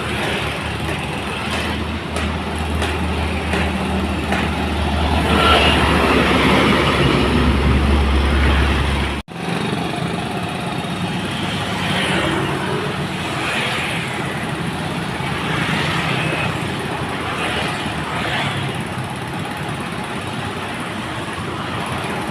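Loaded dump trucks and road traffic passing, engine and road noise throughout. A low engine drone grows louder, then stops at an abrupt cut about nine seconds in, after which passing-vehicle noise continues steadily.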